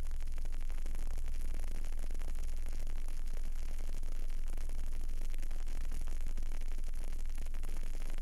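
Candle burning: a steady hiss over a low hum.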